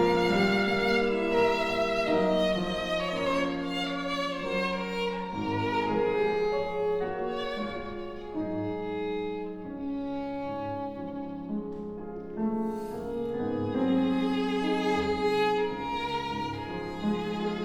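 Violin, cello and piano playing classical chamber music, the violin holding long notes; the playing grows softer in the middle and swells again near the end.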